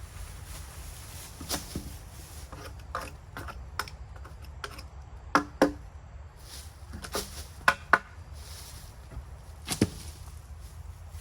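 Irregular sharp knocks and cracks of wood being handled and struck, about a dozen in all. The loudest come as a close pair about five and a half seconds in and another pair near eight seconds, over a low steady rumble.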